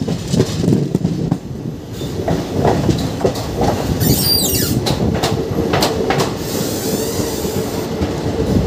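Indian passenger train coach rolling into a station, heard from the open doorway: wheels rumbling and clicking over the rail joints and points. A brief high squeal falls in pitch about four seconds in, and a steady whine comes in from about five seconds on.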